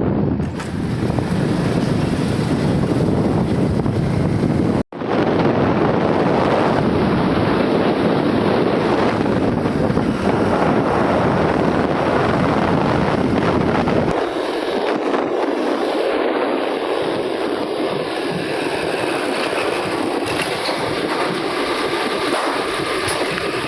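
Steady rushing of a waterfall's falling water, a dense hiss spread over all pitches. It breaks off for an instant about five seconds in, and its deep rumble drops away about fourteen seconds in.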